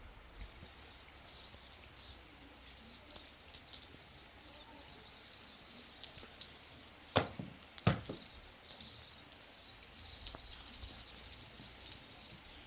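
Birds chirping over faint rain noise, with two sharp knocks less than a second apart a little past the middle.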